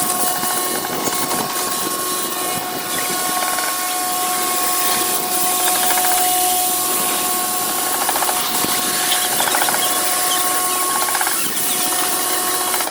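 Automatic car wash machine running one of its stages: a loud steady hiss over a steady two-note motor whine, which both start abruptly and cut off abruptly near the end.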